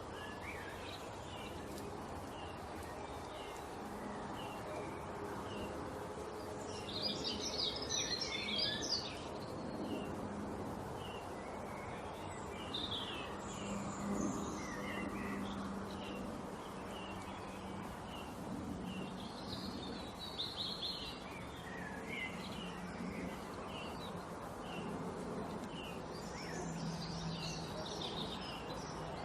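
Small birds chirping: a steady run of short chirps, about one or two a second, with louder bursts of high twittering about seven, thirteen, twenty and twenty-six seconds in, over a steady background hiss.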